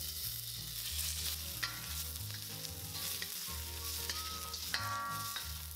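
Shrimp sizzling in a hot, oiled wok while a wooden spatula stirs them, with a few sharp scrapes of the spatula against the pan.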